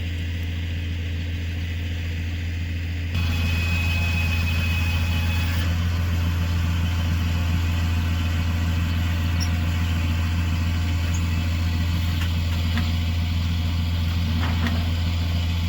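A truck engine idling steadily. About three seconds in, the sound steps up louder, with a busier mechanical layer joining the idle.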